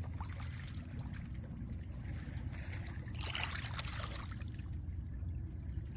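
Small lake waves washing onto a pebble shore. One wave breaks and rushes over the pebbles about three seconds in, over a steady low rumble.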